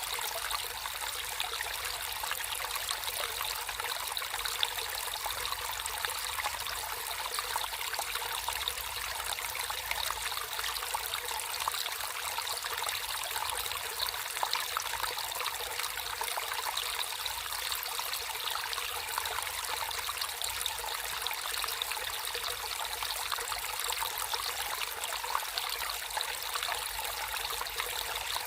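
Water trickling and flowing steadily in a small natural stream, an even splashing hiss with no breaks.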